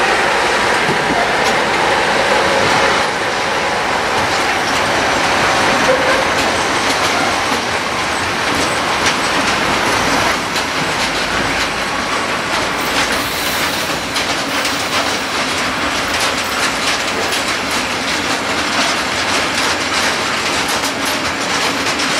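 Freight train of covered hopper wagons rolling past, its wheels clattering steadily over rail joints. The hauling diesel locomotive's engine can be heard in the first few seconds as it moves away.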